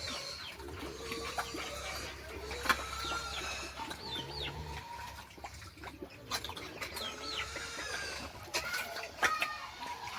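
Chickens clucking and calling in short, high notes, with a few sharp knocks in between.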